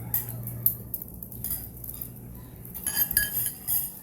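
Cutlery clinking and scraping against a bowl while eating noodle soup, a string of short light clinks that gets busier near the end. A steady low hum sits underneath for the first part.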